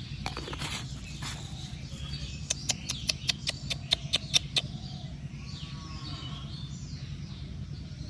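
Small birds chirping over a steady low hum, with a quick run of about ten sharp clicks or taps about halfway through.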